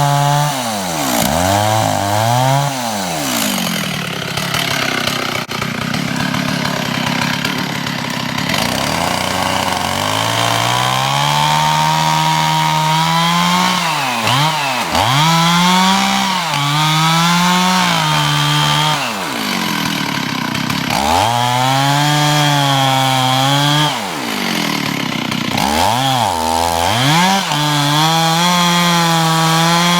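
Gasoline chainsaw running at full throttle while boring into the trunk of a dead hemlock. Its engine pitch sags repeatedly as the bar bogs down in the wood and climbs again as the load eases.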